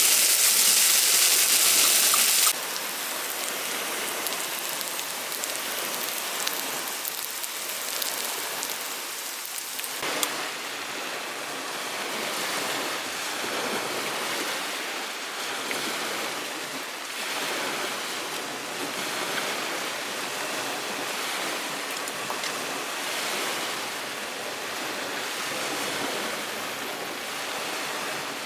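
Steady rain falling, a loud hiss for the first couple of seconds that changes abruptly to a softer, even rush with scattered light taps.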